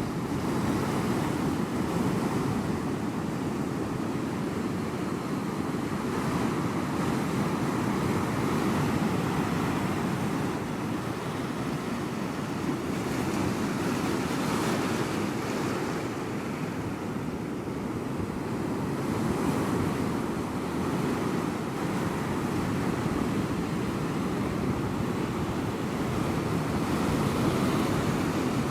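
Ocean surf: waves breaking and washing in a steady rushing roar that swells and eases slowly.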